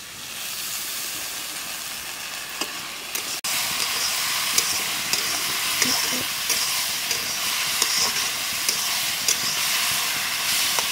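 Ginger-garlic paste frying in hot oil with onions and peas in an iron kadai, a steady loud sizzle with the steel spatula scraping the pan as it is stirred. The sizzle drops out for an instant about three and a half seconds in and comes back louder.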